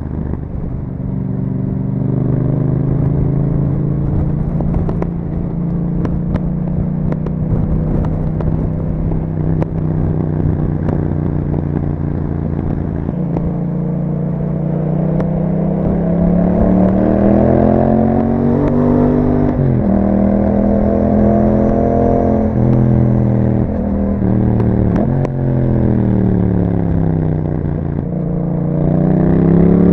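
A 2021 Yamaha MT-07's parallel-twin engine running through an Akrapovic exhaust, heard on board while riding. It holds a steady cruise for about fifteen seconds, then revs up through the gears with sudden drops in pitch at two shifts. It eases off, and picks up again near the end.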